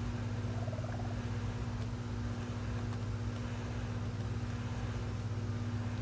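A steady low mechanical hum from a running motor or engine, unchanging throughout. A brief, faint wavering sound comes about a second in.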